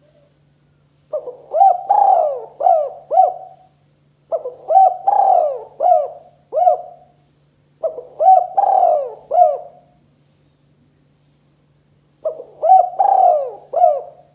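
Spotted dove (tekukur) cooing: four phrases of several quick, bending coo notes each, one every three to four seconds. A steady low hum runs under them.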